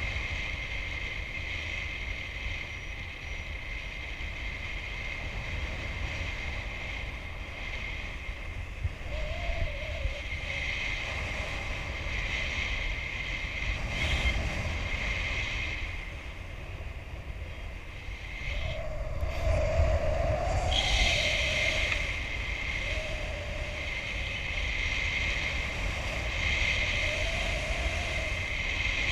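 Wind rushing over the microphone of a paraglider in flight, a steady low buffeting that swells about two-thirds of the way in. A faint wavering tone comes and goes a few times.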